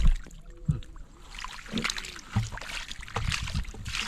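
Splashing and sloshing in shallow water, with irregular low thumps and knocks.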